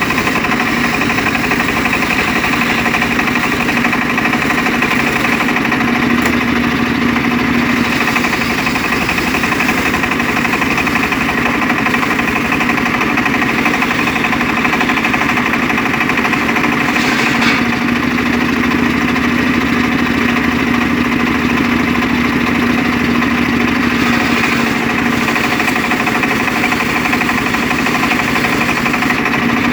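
Engine of a homemade circular-saw rig running steadily at an even speed, driving the saw blade.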